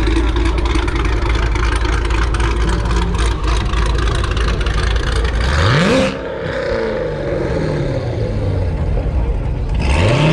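A car engine rumbling at idle, then revved hard about six seconds in, its pitch climbing fast and falling back, and revved again near the end.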